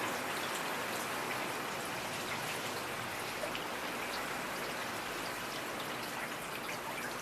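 Steady rain falling, with many small separate drops pattering and ticking on a hard surface.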